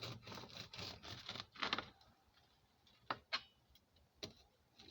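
A bread knife sawing through a crusty home-baked loaf: several quick scraping strokes in the first two seconds, then a few light clicks or knocks.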